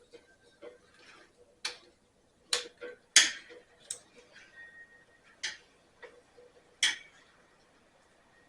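Hand tools and small metal parts clicking and clinking while a switch is worked out of a Snapper riding mower: about seven sharp clicks at uneven intervals, the loudest about three seconds in.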